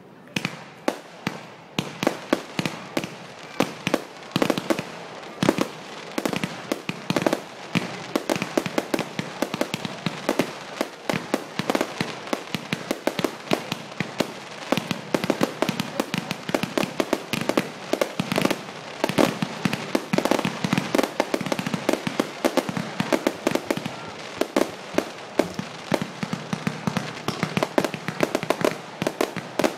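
Fireworks going off in a dense, continuous barrage of sharp bangs and cracks, several a second.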